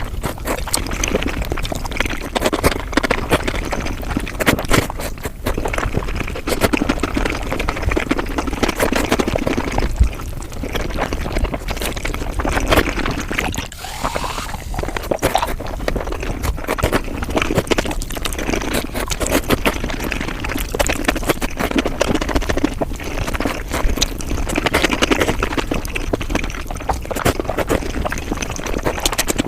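Mukbang eating sounds sped up about five times: a dense, continuous run of rapid clicks and wet mouth noises from close-miked chewing.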